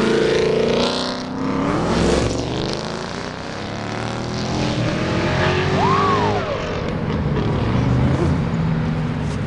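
Ford Mustangs accelerating past one after another, their engines revving and the exhaust note rising and falling as each goes by. A brief rising-and-falling squeal comes about six seconds in.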